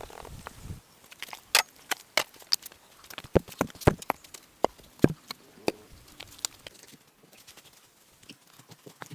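Irregular series of sharp knocks and taps, densest through the middle and thinning out after about seven seconds.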